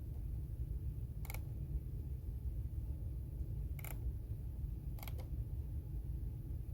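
Three separate clicks of computer keyboard keys, the last one a quick double click. A steady low rumble of background noise runs under them.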